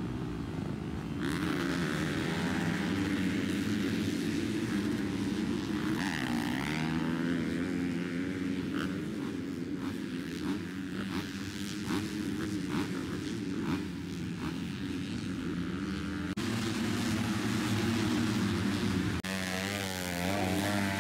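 Motocross bike engines running on track, their pitch rising and falling as the throttle opens and closes, in a few cut-together stretches.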